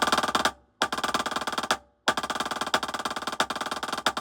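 Snare drum played with sticks: a fast, even run of strokes with accents and rolls, stopping briefly twice before picking up again.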